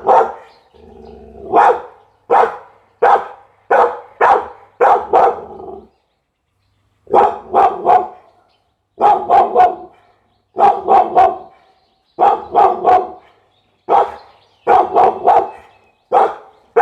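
Pit bull barking repeatedly and loudly. At first it gives single barks under a second apart, then after a short pause it barks in quick runs of two or three.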